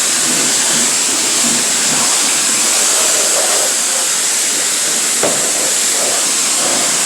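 Self-serve car wash high-pressure rinse wand spraying water onto a car, a loud steady hiss.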